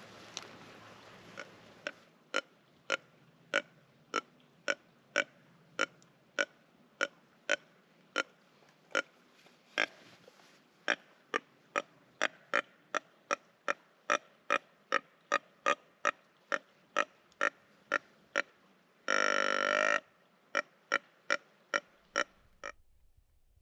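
Deer grunt call blown in a long series of short grunts, evenly spaced and speeding up, with one longer drawn-out call about three-quarters of the way through. It is a rut tending-grunt sequence meant to draw a buck in.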